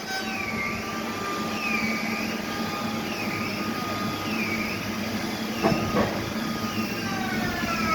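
Large sawmill machinery running: a steady hum under a whine that dips and rises in pitch about once a second, with a couple of knocks a little past the middle.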